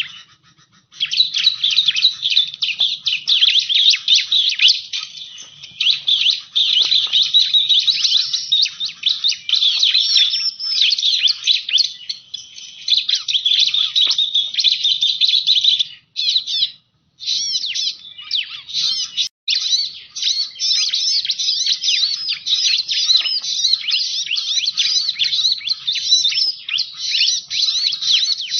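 Bar-winged prinia (ciblek) song, used as a lure call: a dense, fast run of high chirps and trills that goes on almost without pause, broken briefly twice just past the middle.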